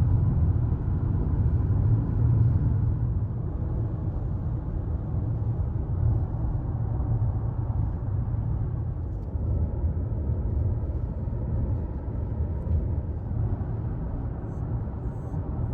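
Steady low rumble of a car driving on the road, road and engine noise heard without change.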